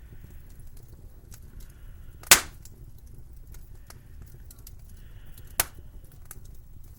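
Wood fire crackling with many small clicks, and two loud sharp pops from the burning logs, the first about two seconds in and the second about three seconds later.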